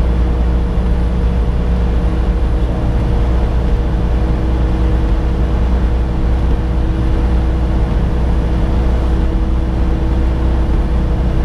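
Semi-truck cab at highway speed: the diesel engine drones steadily under road noise, with a faint steady whine held over it.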